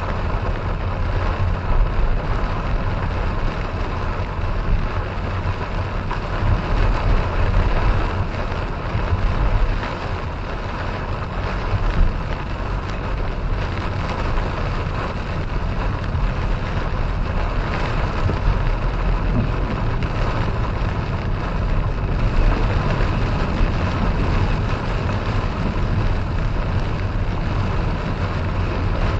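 A car driving in the rain: a steady low rumble of engine and road noise under an even hiss of rain and wet tyres.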